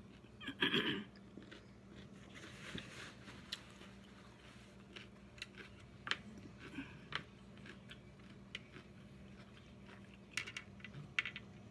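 A person chewing and crunching food close to the microphone, with scattered light clicks of chopsticks against a glass plate. The loudest bit is a short crunchy burst about a second in.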